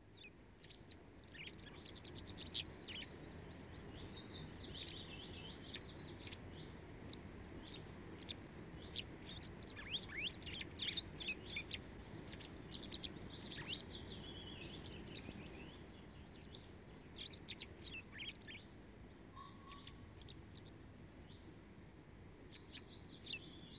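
Songbirds chirping and trilling in many short, high phrases over a low, steady hiss.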